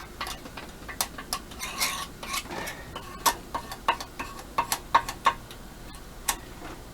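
Irregular sharp clicks and short scrapes of a hand tool working the metal casting of an intake manifold, picking and scraping at rough casting.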